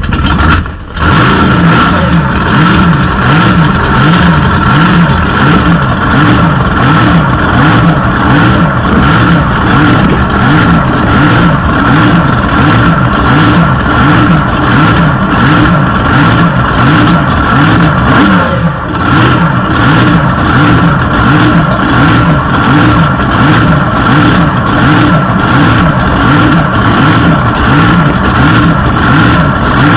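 Blown big-block Chevy engine running loud with a steady high whine and a regular rise and fall a little more than once a second, dipping briefly about nineteen seconds in.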